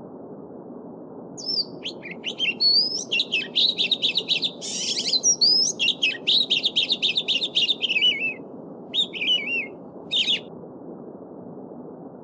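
A small songbird singing a long, varied song of rapid trills and whistles over the steady rush of a babbling stream. The song breaks off after about nine seconds, ending with two short phrases.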